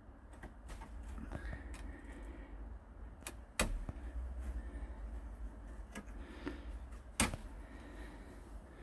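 Two sharp clicks about three and a half seconds apart, with a few fainter ticks between them, over a steady low rumble.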